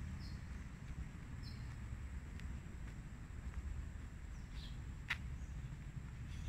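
Quiet outdoor ambience: a low steady rumble with a few short, high bird chirps spread through, and a sharp click about five seconds in.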